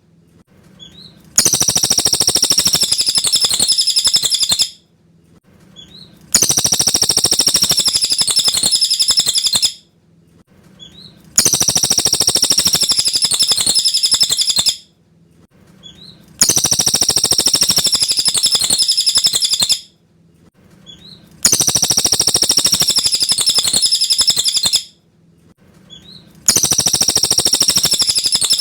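Cililin song: clear, high, rapid phrases of about three seconds, repeated the same way every five seconds or so, with faint short chirps in the pauses between them.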